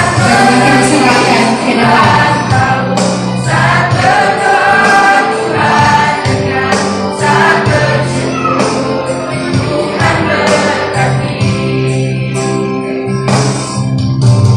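A mixed youth choir singing a Christian gospel song in harmony over sustained keyboard or organ chords.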